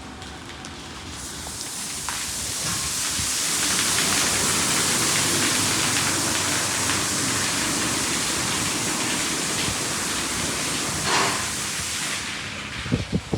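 High-pressure water spray from a LaserWash G5 touchless car wash drumming on a car. The hiss builds over the first couple of seconds, holds steady, and fades near the end as the spray moves off.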